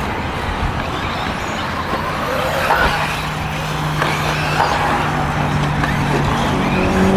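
Electric RC buggies running on the race track: a steady rushing noise with a low hum. Near the end a droning tone starts and slowly rises in pitch.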